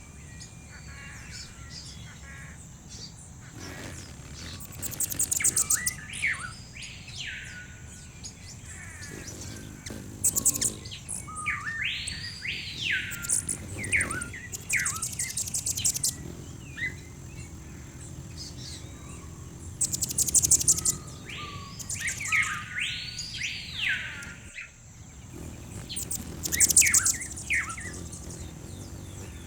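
Songbirds calling in a background bird-song ambiance: loud whistled notes that rise and fall in arches, each about a second long, alternating with short, very high rapid trills every few seconds. A steady high-pitched hiss runs underneath.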